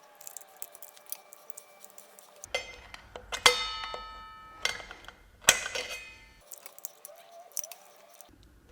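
A pry tool clicking and scraping against the steel snap ring and clutch drum of a ZF 6HP26 automatic transmission as the snap ring is worked out of its groove. There are two sharp metallic strikes, a few seconds in and again about two seconds later, each ringing on briefly.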